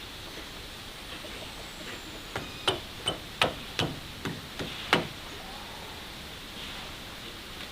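A quick run of about eight sharp knocks or taps, a third to half a second apart, starting a little over two seconds in and stopping about two and a half seconds later.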